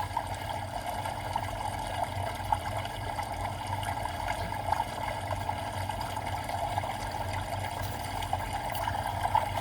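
A recorded bamboo water fountain playing as background white noise: steady trickling water with small splashes, over a low steady hum.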